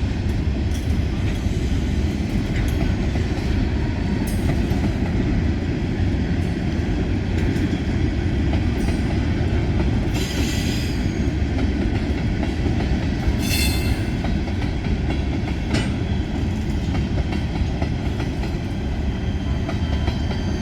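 Freight cars of a long train rolling past: a steady rumble of steel wheels on rail with clicks over the rail joints, and two brief wheel squeals, about ten and thirteen seconds in.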